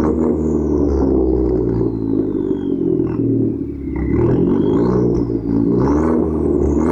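Alfa Romeo MiTo 1.4 turbo engine running through a Supersprint high-flow cat-back exhaust. The exhaust note holds fairly steady at first, then rises and falls several times from about four seconds in as the revs change.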